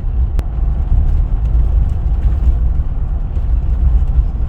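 Steady low rumble of road and engine noise inside the cabin of a 2021 Jeep Wrangler with its 3.0 L EcoDiesel V6, cruising at a constant speed to let the diesel exhaust filter regenerate. There is one short click about half a second in.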